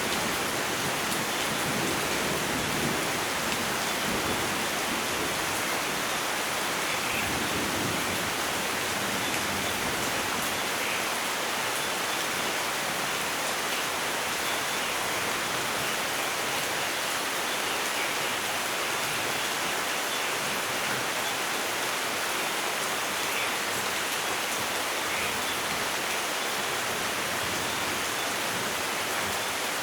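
Steady rain falling, an even hiss with no break. A low thunder rumble fades out in the first couple of seconds.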